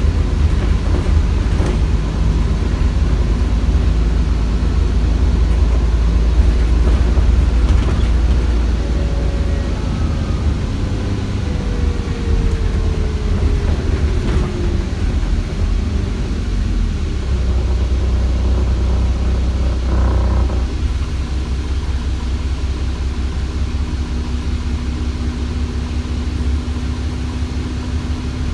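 Cummins ISBe 6.7-litre diesel of an ADL Enviro400 double-decker bus with Voith gearbox heard on board while driving, a steady heavy rumble. Partway through, a turbo whine falls in pitch as the engine eases off, and there is a brief burst of noise about two-thirds of the way in.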